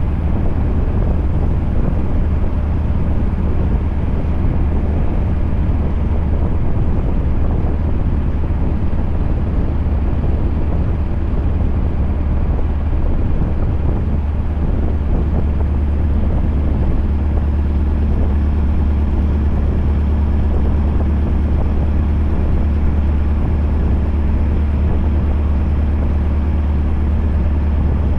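Scania V8 truck running at a steady pace, its engine and road noise making a constant low drone with no change in speed.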